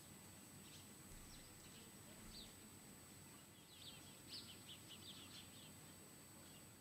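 Faint birds chirping: scattered short, high chirps, with a quick run of them from about three and a half to five and a half seconds in, over a low steady hiss.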